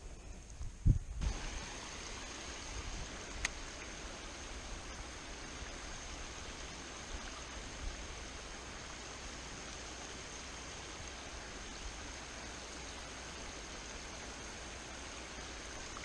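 Creek water running steadily, an even rushing sound, with a short low thump about a second in.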